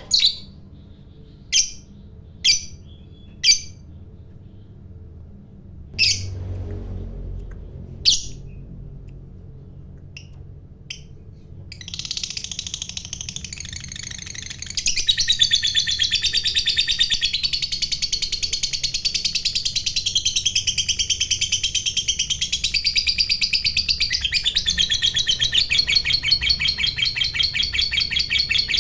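Lovebird giving about six short, sharp single calls, then breaking into a long, fast chattering trill (the 'ngekek panjang' song) a little before half-way. The trill runs on unbroken, settling into a rapid even pulse.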